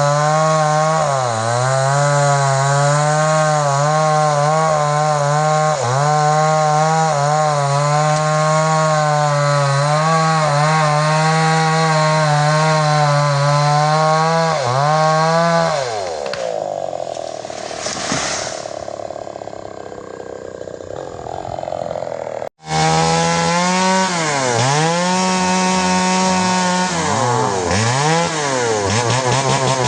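Two-stroke chainsaw running at full throttle, cutting timber, its revs dipping again and again under load. About halfway through the revs fall away into a noisier stretch without the engine's steady note; after a sudden break the saw runs at high revs and cuts again.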